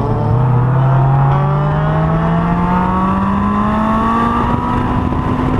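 Honda S2000's inline-four engine under hard acceleration on track: the pitch drops at an upshift just after the start, then climbs steadily through the gear as the revs build.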